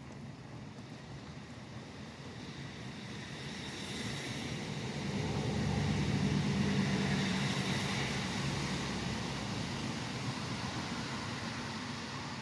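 A vehicle passing on a wet highway in the rain, its engine hum and tyre hiss building to loudest about six or seven seconds in and then slowly fading, over the steady hiss of rain.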